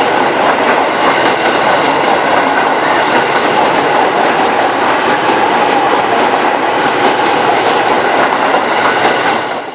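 Electric commuter train passing close by, its wheels clattering over the rail joints in a steady, loud run. The sound falls away sharply near the end.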